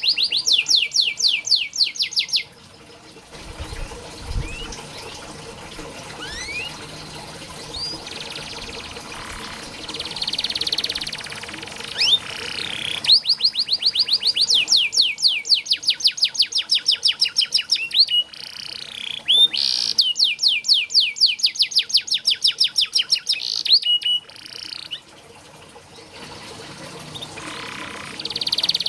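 Domestic canary singing: long, fast rolling trills of high, rapidly repeated rising notes, broken by softer chirps and short phrases, with a brief low thump about four seconds in.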